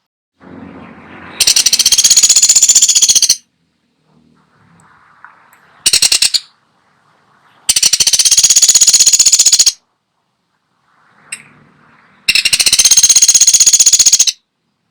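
Pelatuk sampit bird giving loud, rapid rattling trills of fast-repeated high notes. There are four trills, each about two seconds long except a short one about six seconds in.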